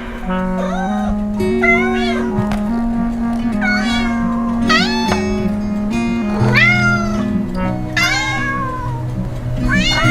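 A cat meowing over and over, about seven drawn-out meows that rise and fall in pitch, over background music with long held notes.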